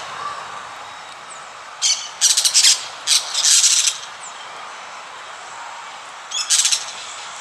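Small cage birds calling in short, rapid chattering bursts, about two seconds in, again around three seconds, and once more near the end, over a steady hiss.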